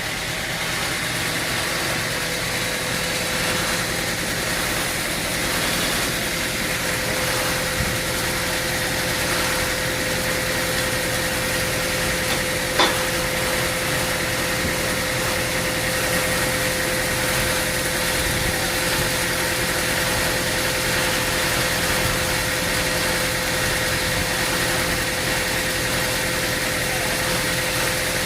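An engine running steadily at idle with a constant whine. A single sharp click sounds about halfway through.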